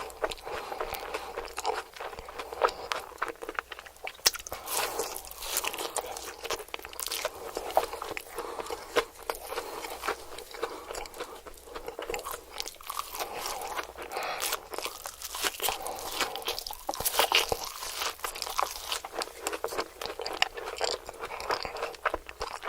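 Close-miked crunchy chewing and biting: a person eating crisp food, with steady irregular crackles and crunches.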